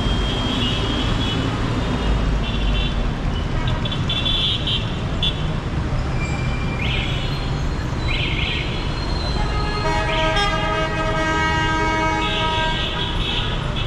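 Busy city street traffic with engines running steadily and car horns tooting again and again. A longer, steady-pitched horn sounds for about three seconds near the end.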